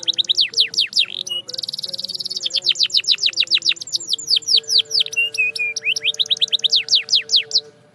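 Canary singing: a run of quick falling whistled notes, about five or six a second. A fast, buzzy rolled trill comes about a second and a half in, and a few lower, level notes around five seconds in. The song stops shortly before the end.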